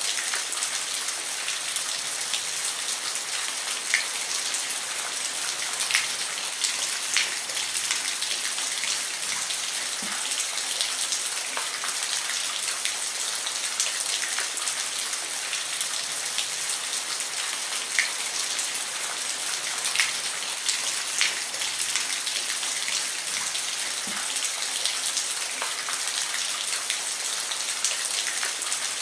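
Steady rain falling on a roof: an even hiss of rain with individual drops ticking sharply here and there.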